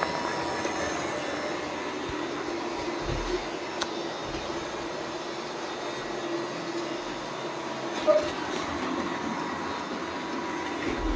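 Robot vacuum cleaner running with a steady whirring hum, with a few light clicks and knocks, the sharpest about eight seconds in.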